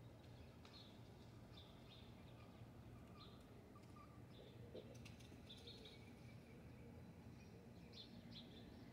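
Faint, scattered short high chirps of birds, over a quiet background hum.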